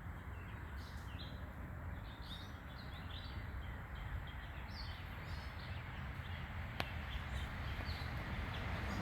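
Small backyard birds chirping in short, scattered calls over a steady low background rumble, with a single sharp click about seven seconds in.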